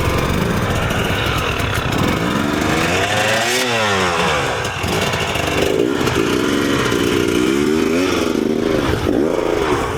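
Enduro motorcycle engine revving hard and unevenly, the revs dropping and climbing sharply about a third of the way in and then rising and falling repeatedly, as the bike is worked through deep ground.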